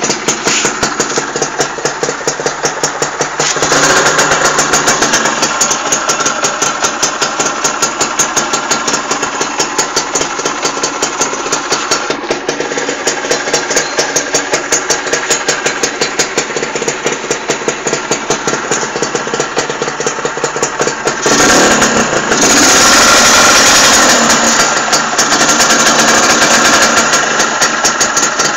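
Suzuki Satria R two-stroke motorcycle's exhaust, idling with a fast, even popping. It picks up a little about three and a half seconds in, then revs higher for a few seconds near the end before settling back to idle.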